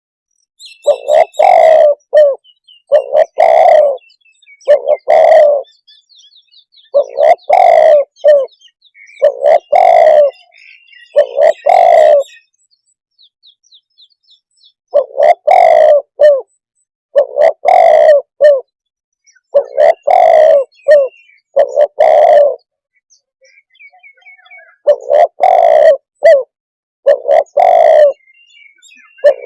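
Spotted dove cooing loudly: phrases of several low, hoarse coos repeated over and over with pauses of about two to three seconds between phrases. Faint high chirps of small birds sound in the gaps.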